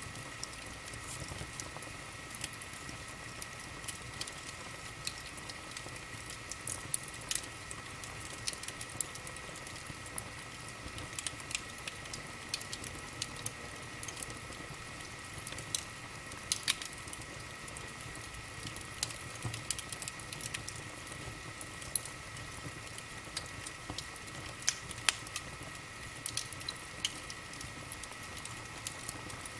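Wood fire burning in a fireplace, crackling with irregular sharp pops over a steady faint hiss.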